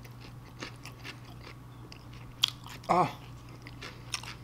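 Close-up mouth sounds of a person chewing a bite of sloppy joe sandwich: soft wet smacks and clicks. A sharp smack comes about two and a half seconds in, and a short hummed "mm" follows just after.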